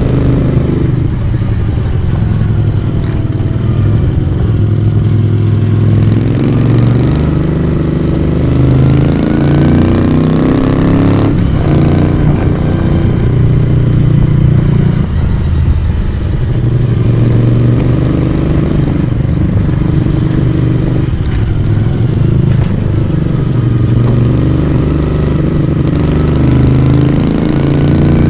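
Moto Guzzi V35 café racer's air-cooled V-twin engine and exhaust running under way, the note rising and falling several times as the revs change, with a few short breaks in the note.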